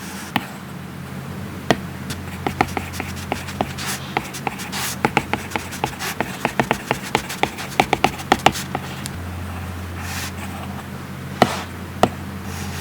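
Stylus tip tapping and writing on an iPad Pro's matte Paperlike screen protector: quick hard clicks, coming fast through the middle and then only two more near the end, over a steady low hum.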